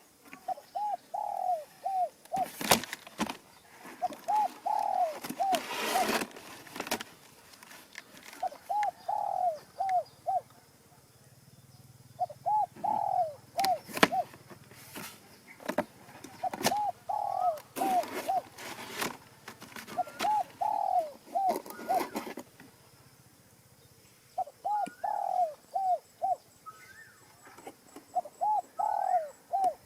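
Pigeons cooing in short phrases of several arching notes, one phrase every three to four seconds, with scattered rustling and knocking noises in between.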